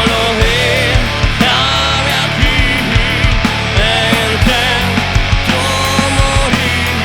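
Live rock band playing, with drums keeping a steady beat under a wavering lead melody line with vibrato.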